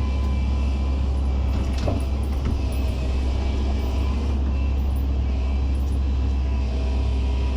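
Excavator's diesel engine running steadily under work, with a brief knock about two seconds in.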